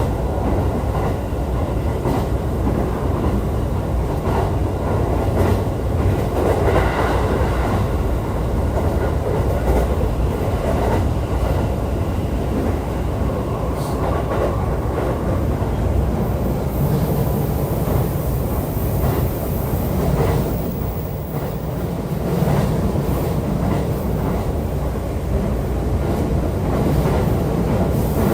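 JR East E531 series electric multiple unit running on the Joban Line, heard from inside the car: a steady rumble of wheels on rail with scattered clicks of rail joints, easing briefly about two-thirds of the way through.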